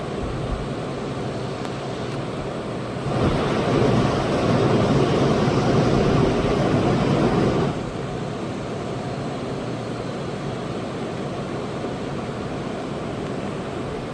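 Running noise heard inside a Kamome shinkansen car at speed: a steady rush of rolling and air noise. About three seconds in it turns abruptly louder and fuller for some four and a half seconds, then drops back to the earlier level.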